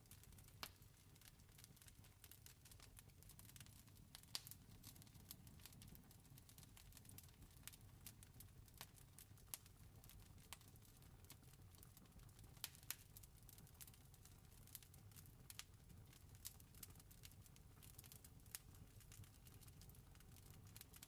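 Campfire crackling faintly: irregular sharp pops and snaps over a low steady rumble.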